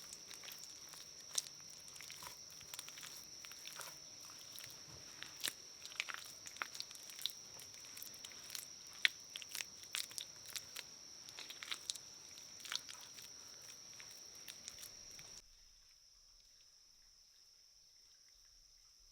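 Irregular crunching and crackling clicks over a steady high-pitched insect drone. The clicks stop suddenly about fifteen seconds in, and the drone carries on more quietly.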